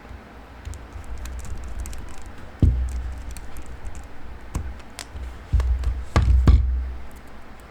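Light clicks and taps of a precision screwdriver and a phone being handled on a work surface as the bottom screws go in, with low thuds underneath. There is a sharp knock about two and a half seconds in and a cluster of louder knocks around six seconds.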